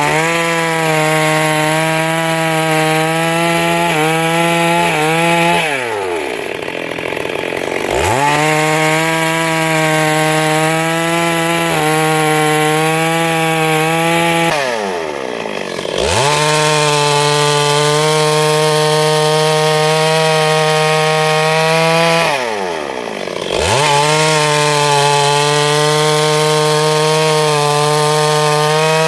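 Two-stroke chainsaw running at full revs through wood, cutting a log into boards. Three times the engine note falls away toward idle and then revs back up.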